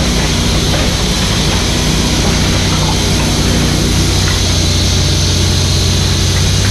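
Mini excavator's diesel engine running at a steady speed, a low, constant drone.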